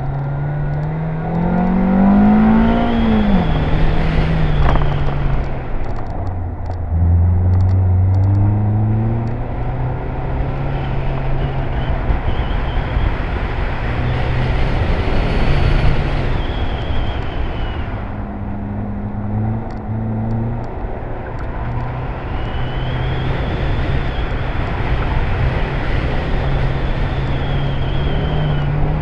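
Small hatchback's engine revving up and dropping back again and again as it is driven hard through a tight cone course, the pitch climbing and falling with each acceleration and lift. A faint high squeal comes and goes through several stretches.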